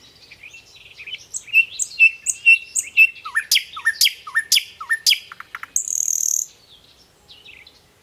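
Small birds chirping: a string of short high chirps, then five or so quick downward-sweeping whistled notes mixed with sharp clicks, and a brief high buzz about six seconds in.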